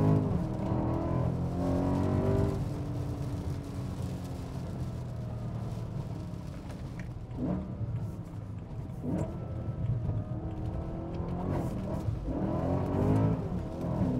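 BMW E90 M3's 4.0-litre S65 V8, with an aftermarket exhaust, heard from inside the cabin. The revs climb under acceleration, then settle lower with a few short throttle blips in the middle, and climb again near the end.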